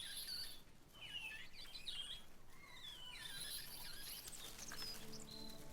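High-pitched, wavering squeals of a newborn snub-nosed monkey being handled, several calls that bend and fall in pitch. Soft music with held notes comes in near the end.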